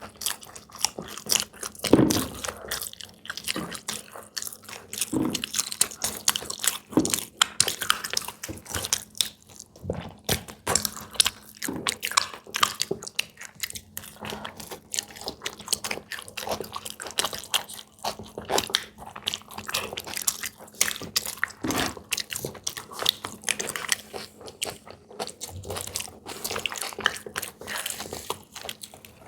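A person biting and chewing crunchy fried snack food, with a stream of irregular crisp crunches.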